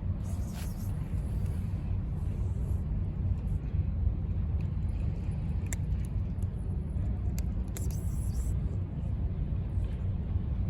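Steady low outdoor rumble, with a few faint clicks and short hisses on top.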